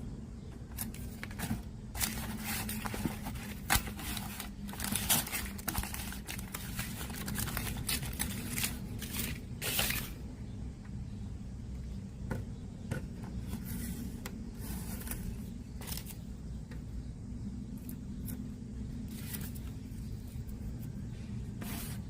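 Irregular scrapes and clicks of hands working on a small device, busiest in the first half, over a steady low hum.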